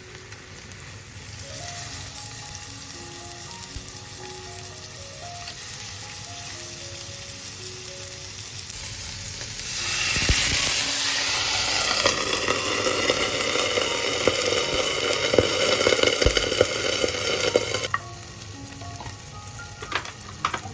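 Food sizzling in a hot frying pan: a light sizzle that swells to a loud crackling sizzle about halfway through, then cuts off abruptly near the end. Soft background music plays throughout.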